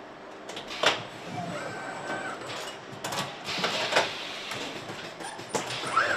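Factory machinery on an engine assembly line: a run of sharp metallic clanks and knocks over a steady hiss, with short whirring tones between them.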